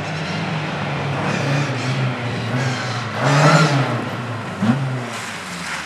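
Race car engines running at speed on track, revving up and down through the gears, with one car passing louder about three seconds in.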